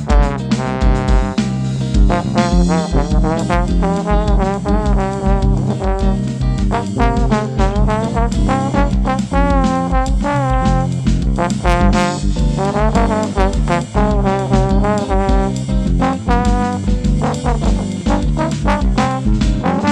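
A trombone playing a lead melody with vibrato over a band, with bass notes and a kick drum keeping a steady beat.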